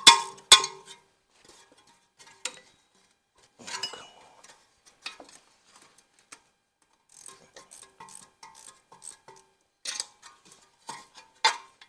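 Loose metal engine parts clinking and clanking as they are handled and set down: scattered sharp knocks, each with a short ring. The loudest clanks come at the very start and again near the end, with a run of lighter clinks in between.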